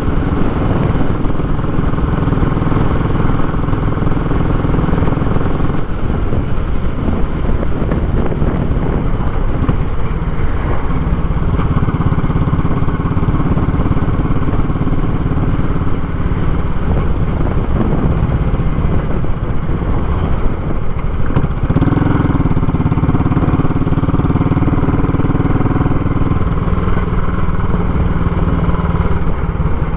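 Royal Enfield Classic 500's single-cylinder engine running through a short, raw-sounding muffler while the bike is ridden. The engine note holds steady for stretches and changes pitch several times as the speed changes.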